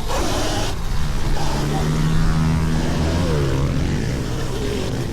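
Pit bike engine running past, its note holding and then dropping in pitch about three seconds in, over a steady low rumble.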